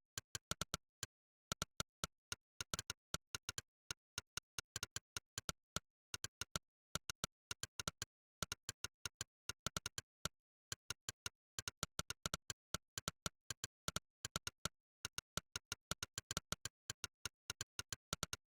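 Monkeytype's synthetic 'click' keypress sound effect, one short identical click per keystroke, coming in rapid runs broken by brief pauses.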